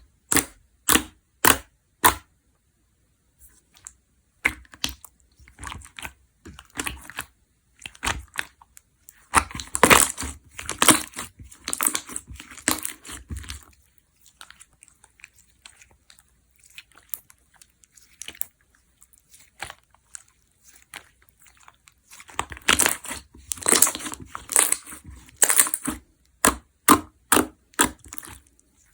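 Hands pressing, poking and stretching a jiggly water-jelly slime: a run of short, sharp crackling clicks and pops, thickening into dense crackling about ten seconds in and again about twenty-three seconds in.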